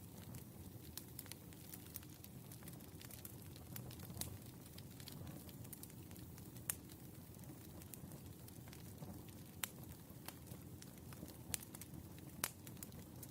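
Wood fire burning: irregular crackles and sharp pops over a low, steady rumble of the flames, with a few louder pops about halfway in and near the end.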